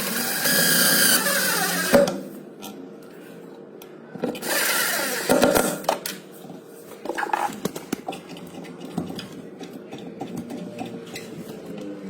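A small power tool's motor running in two bursts of about two seconds each, the first at the start and the second about four seconds in, then scattered clicks and knocks.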